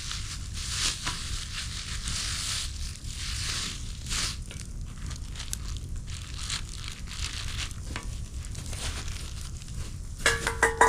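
Plastic packaging crinkling and rustling as it is handled, in uneven bursts. Near the end, a short metallic clink that rings briefly.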